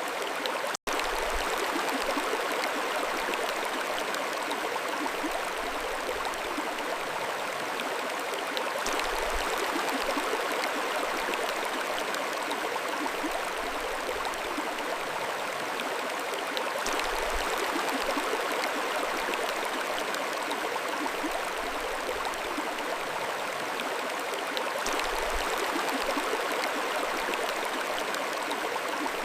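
Mountain stream water flowing and babbling steadily over stones, with a split-second dropout about a second in.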